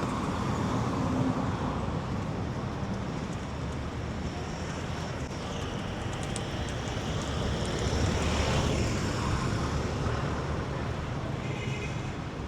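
Street traffic: a steady wash of vehicle engines and road noise, with a vehicle passing closer and louder about eight seconds in.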